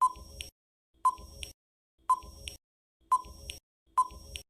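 Countdown timer sound effect: five short ticks about a second apart, each a sharp blip followed by a softer click.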